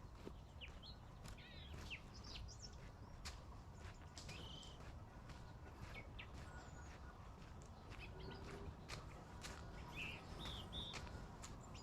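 Birds chirping and calling in short scattered phrases, with frequent light clicks of footsteps on the trail over a low rumble.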